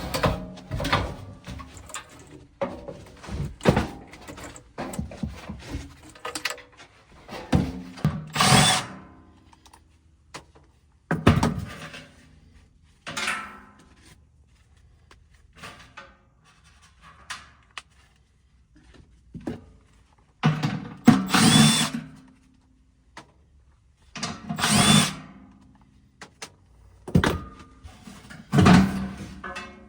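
Cordless power drill run in short bursts of about a second, six or so times, among knocks and clatter of parts being handled.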